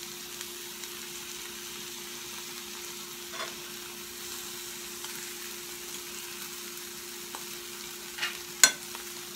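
Salmon and mackerel with onions and bell peppers sizzling steadily in a frying pan. There are a few light clicks, and one sharp click near the end.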